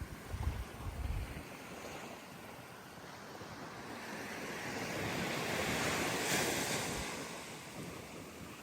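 Surf washing up on a sandy beach: one wave's hiss swells, peaks about six seconds in and fades. Wind buffets the microphone in the first second or so.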